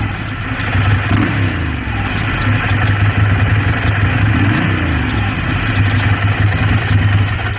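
Ducati Monster 696's air-cooled 90-degree V-twin running at a steady idle through its stock exhaust.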